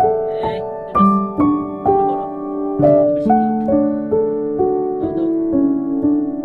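Background piano music: a gentle melody of struck, sustained notes, a new note about twice a second.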